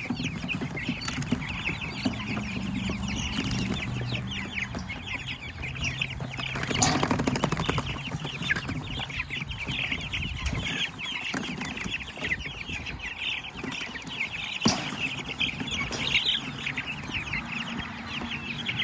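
A flock of young Cornish Cross meat chicks peeping continuously, many quick high chirps overlapping. A single sharp knock about fifteen seconds in.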